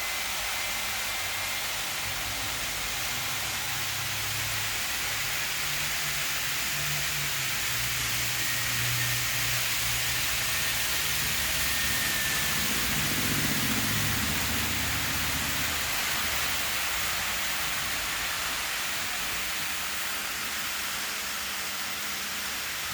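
Model train running on the layout: a low hum that builds a few seconds in and fades out after about sixteen seconds, under a steady hiss.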